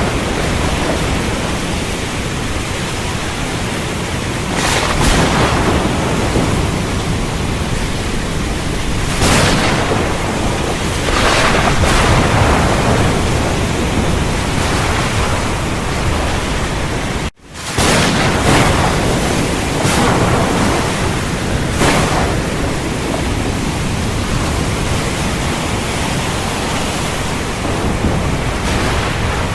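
Heavy rain falling steadily in a thunderstorm, with several brief cracks and surges of thunder. A little past halfway the sound cuts out for a split second and then comes straight back.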